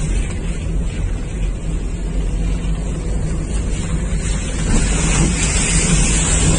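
A car in a heavy rainstorm: a steady low engine hum under a loud rush of rain and water noise. The rush grows louder about five seconds in.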